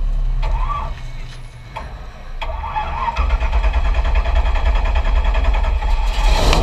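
400 hp stock car's engine starting about two and a half seconds in and settling into a loud, steady low idle.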